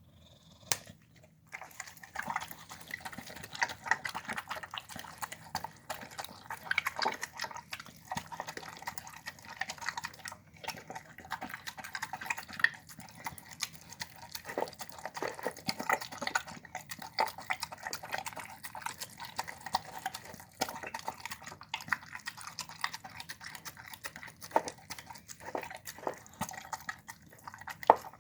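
A dog eating close to the microphone: constant wet chewing, crunching on chicken bones and sharp clicks of teeth, starting about a second in and going on without a break.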